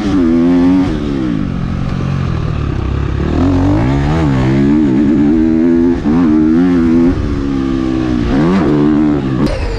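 Four-stroke motocross bike engine, a KTM 250 SX-F single-cylinder, revving up and down as it is ridden, its pitch rising and falling several times under throttle and gear changes.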